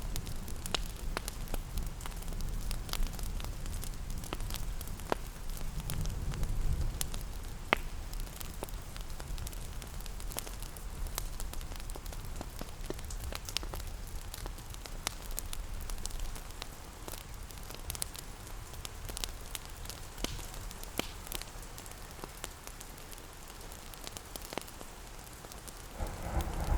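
Wood fire crackling with scattered sharp pops, over a steady low wash of rain. A deeper rumble swells right at the end.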